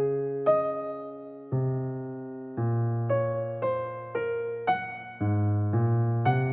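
Slow, gentle electric piano music: chords struck about once a second, each fading away before the next.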